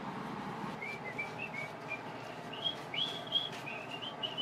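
A small bird chirping a quick, irregular run of short, high whistled notes.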